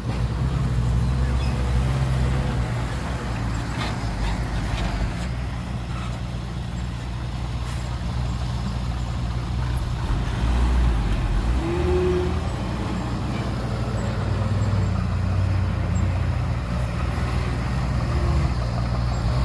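Heavy diesel earthmoving machinery running steadily with a low engine drone, its loudness swelling and easing a little.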